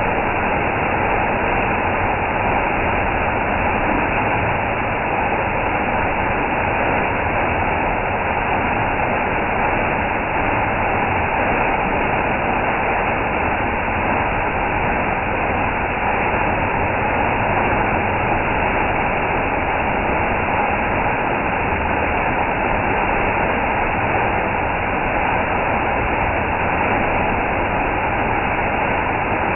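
Steady rushing of an indoor exhibit waterfall: a continuous, even wash of falling water with no breaks.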